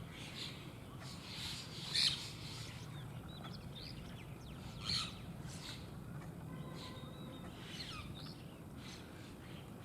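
Short, sharp bird calls and chirps, the loudest two about two seconds in and about five seconds in, over a steady low background noise.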